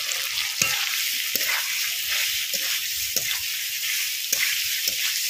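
Fried papaya cubes sizzling in oil and spice paste in a kadai, stirred with a metal spatula that scrapes against the pan about once a second over a steady sizzle.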